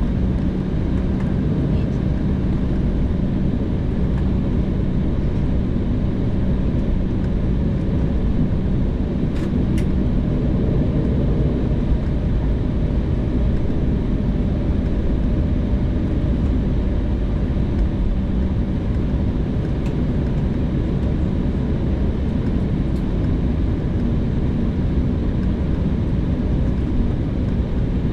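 Embraer 190's turbofan engines running steadily, heard inside the passenger cabin as a dense low rumble with a constant hum under it.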